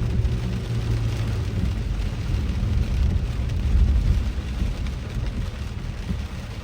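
Inside a moving car in heavy rain: the low rumble of the engine and tyres, with rain hissing on the car. The rumble swells about halfway through and eases toward the end.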